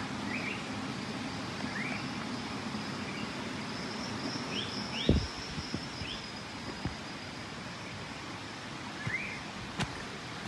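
Forest ambience: a bird gives short rising chirps every second or two over a steady hiss, with a faint high steady buzz through the middle. A single low thump comes about five seconds in.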